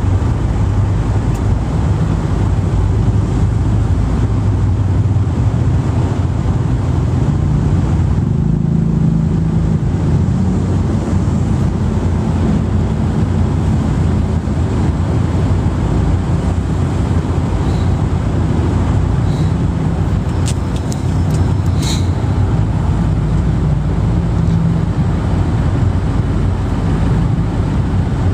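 Steady low rumble of a moving vehicle, its engine drone shifting slightly in pitch, with a few faint clicks about twenty seconds in.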